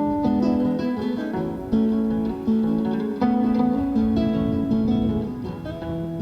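Acoustic guitar playing an instrumental passage of a folk song between sung verses, a run of notes changing about every half second.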